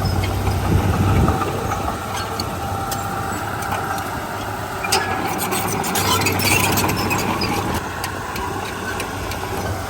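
Heavy diesel engine running. Its low hum fades about a second in and comes back about six seconds in, with scattered metallic clanks and rattles around the middle.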